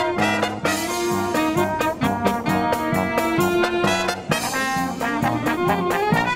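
Brass marching band playing live: trumpets and trombones in a jazzy, swing-style tune over a steady percussion beat.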